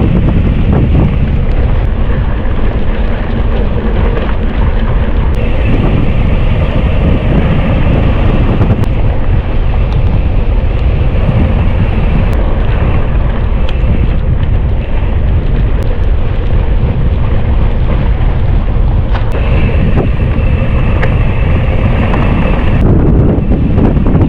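Loud, steady wind rumble on the microphone of a camera carried on a moving mountain bike.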